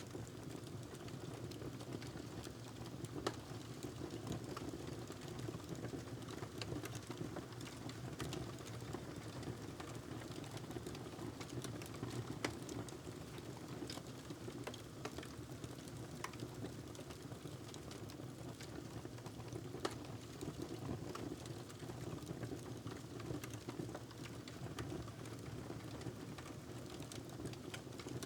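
Wood fire crackling in a fireplace: a steady low rumble with irregular small crackles and a few sharper pops.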